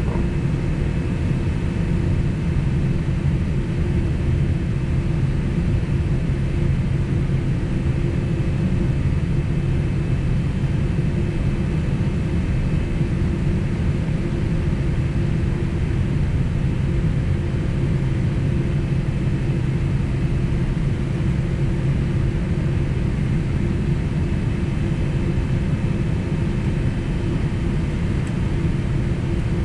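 Steady low rumble and drone of a Boeing 767 airliner's jet engines, heard inside the passenger cabin, with a few faint steady tones over it.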